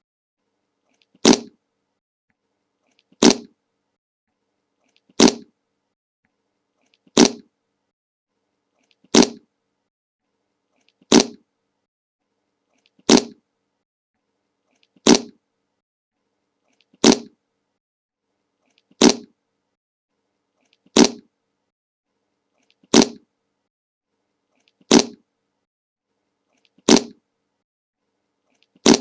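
A fart sound effect played over and over, one short fart about every two seconds with silence in between.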